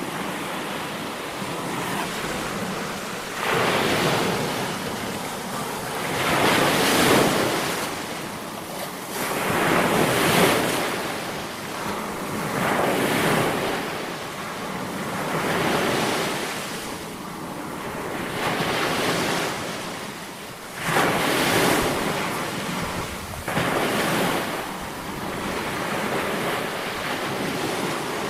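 Ocean surf breaking on a shore, the noise swelling and fading every three seconds or so, with a few waves crashing in suddenly.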